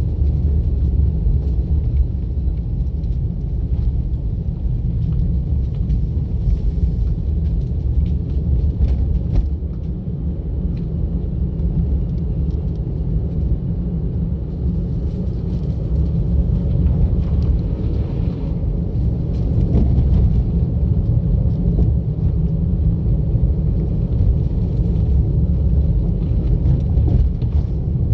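Steady low road rumble of a car being driven: tyre and engine noise with no changes.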